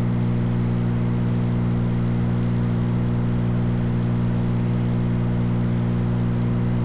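Cessna 182's piston engine and propeller running steadily in flight, an even drone with a constant low tone.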